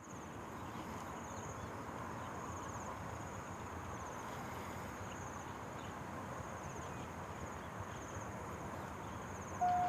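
Insects chirping in repeated high trills, about one every second or so, over a steady low background hum. Just before the end, a loud electronic level-crossing warning tone starts, one steady pitch repeating with short breaks.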